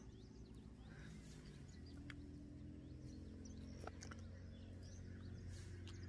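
Faint outdoor ambience with many brief, high chirps from small birds scattered throughout, over a steady low hum and a few soft clicks.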